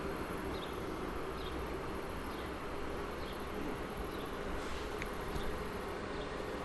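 Steady outdoor ambience with a constant high insect-like buzzing and faint short chirps repeating about once a second, over a low rumble.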